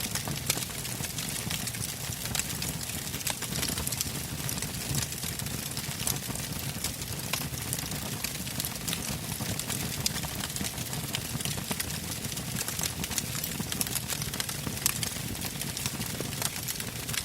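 Wood campfire burning, its logs crackling with many small, irregular sharp pops over a steady low rush of flame.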